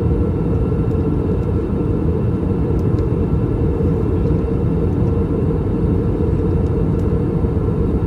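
Steady cabin roar inside an Airbus A321-200 in flight during its descent: airflow and IAE V2533-A5 engine noise, heaviest in the low end, with a faint steady whine above it.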